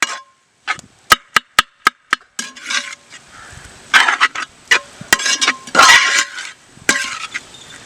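Spatula chopping parotta, chicken and egg in a pan for kothu parotta: a few sharp strikes about a second in, then quicker clattering and scraping against the pan with a faint ring.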